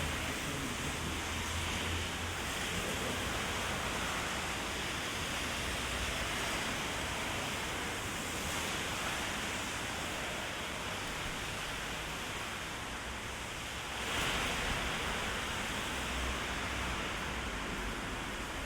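Heavy rain falling steadily on a city street and on an umbrella overhead, an even wash of noise that swells a little about fourteen seconds in.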